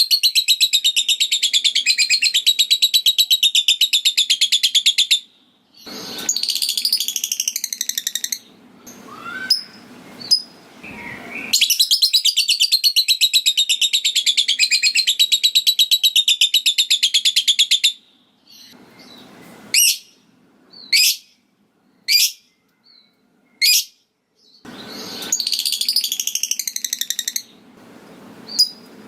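Lovebird singing the long 'ngekek' chatter: three long runs of very rapid, evenly repeated high notes, each lasting several seconds. Between the runs come short chirps and a few single sharp high calls.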